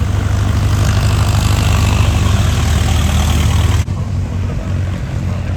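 Loud car engine running with a low, rapid firing pulse. The sound cuts abruptly a little under four seconds in to a slightly quieter engine.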